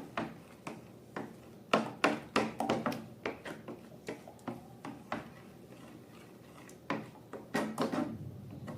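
Hands handling slime-making materials: an irregular run of short clicks and taps, several a second, loudest about two seconds in and again near the end.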